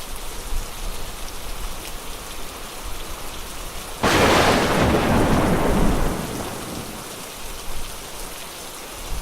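Steady rain falling, with a loud clap of thunder about four seconds in that dies away over the next two to three seconds.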